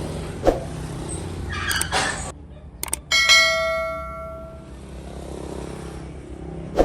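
A sharp strike about three seconds in that rings like a bell, its tone dying away over about a second and a half, after a few knocks over a steady machine hum.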